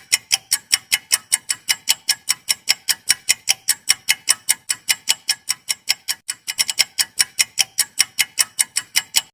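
Clock-ticking sound effect used as a quiz countdown timer: fast, even, sharp ticks, about five a second, which stop abruptly near the end.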